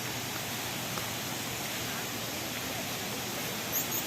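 Steady, even rushing noise with a few faint, short high chirps near the end.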